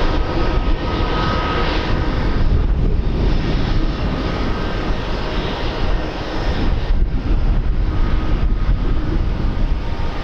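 Airliner engines running loud and steady, with a faint whine in the first couple of seconds, and wind buffeting the microphone.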